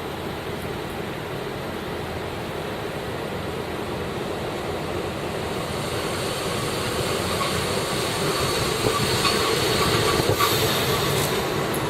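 Train approaching on the rails, its running noise growing steadily louder to a peak near the end, with a few sharp clicks of wheels over rail joints.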